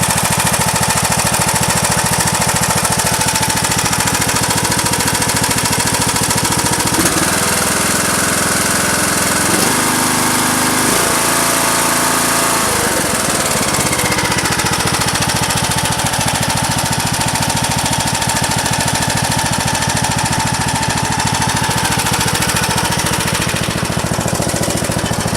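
John Deere D105 lawn tractor's Briggs & Stratton Intech 17.5 engine running steadily, its note changing for several seconds in the middle before settling back.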